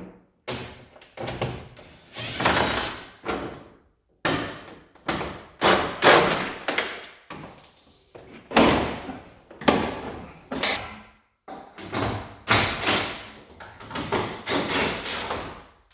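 Irregular series of knocks, thumps and rattles from hand work on a car's plastic rear bumper cover and its fastening clips, about one or two sharp hits a second with brief pauses.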